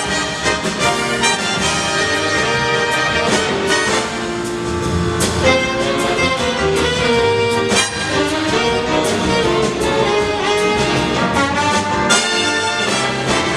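Live big band playing jazz: brass section of trumpets and trombones with saxophones over drum kit, loud and continuous.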